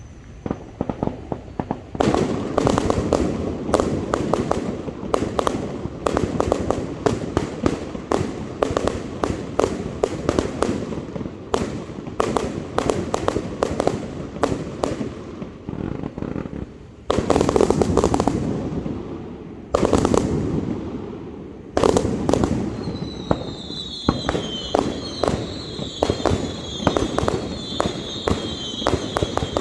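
A 260-shot consumer firework cake firing nonstop: rapid launches and bursting shots in quick succession starting about two seconds in, with a few louder, heavier breaks in the middle. Near the end a repeating falling whistle joins the shots.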